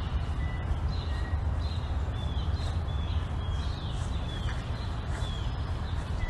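Birds chirping outdoors, repeated short high chirps, many falling in pitch, over a steady low rumble.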